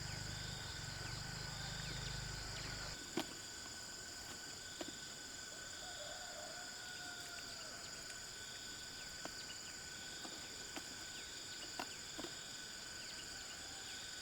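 Insects chirping steadily at several pitches, one of them pulsing about once a second. A low rumble cuts off about three seconds in, and a few sharp clicks follow.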